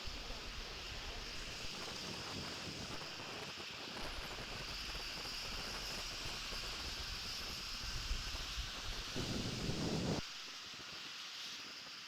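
Wind buffeting the nest camera's microphone, a low, uneven rumble over steady hiss. It grows stronger about nine seconds in, then drops away suddenly about a second later.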